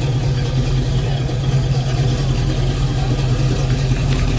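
Car engine running steadily at low speed, a constant low hum.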